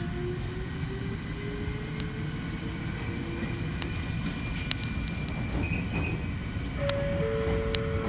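Ohmi Railway electric train heard from aboard as it gets under way: the motor whine rises slowly in pitch over the first few seconds as the train accelerates, over a steady rumble of wheels on rail with scattered clicks. Two steady tones start near the end.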